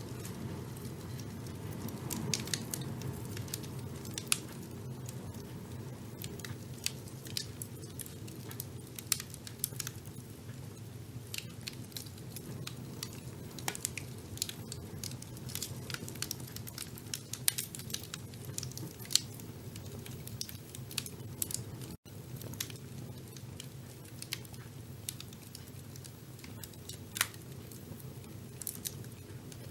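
Wood fire burning in a fireplace: a steady low rumble of the flames with frequent sharp crackles and pops, irregular and of varying loudness. The sound drops out for an instant about three quarters of the way through.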